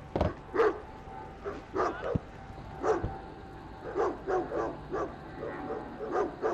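Newfoundland dog barking repeatedly, about a dozen separate barks at uneven intervals, coming closer together in the second half.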